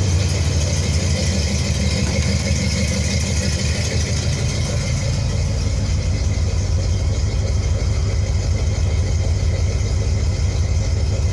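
Buick 350 V8 with newly fitted headers and exhaust, idling steadily as a deep, even exhaust rumble. The engine is warm, at about its 180-degree thermostat temperature.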